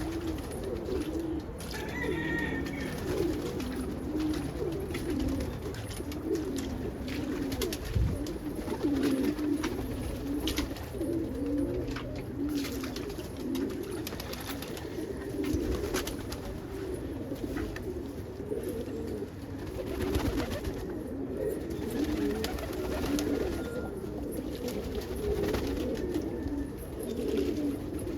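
A flock of pigeons cooing continuously, many overlapping coos, with a brief higher bird chirp about two seconds in and a single thump about eight seconds in.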